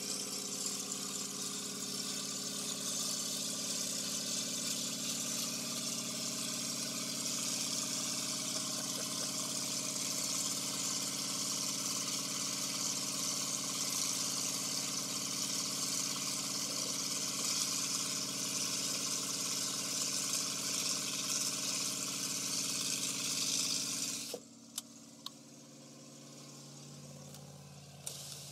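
A vehicle engine idling steadily, a stack of low hum tones under a constant high hiss. About 24 seconds in, the sound cuts abruptly to a much quieter, lower engine hum heard from inside the vehicle.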